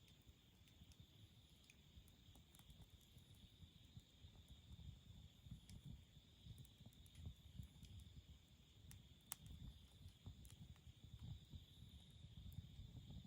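Campfire burning faintly: scattered sharp crackles and pops of burning wood over a low, fluttering rumble of the flames, with a steady high-pitched drone behind.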